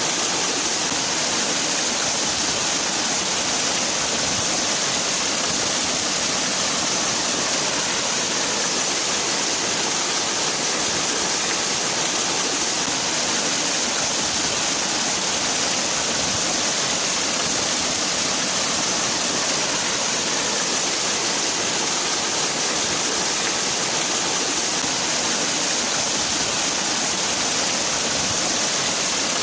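Waterfall: water falling and splashing in a steady, unbroken hiss, strongest in the high range.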